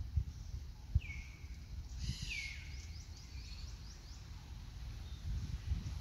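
Forest birds calling: a downward-sliding call about a second in, then a louder descending call followed by a quick run of short falling chirps. Under it is a low rumble of noise on the microphone.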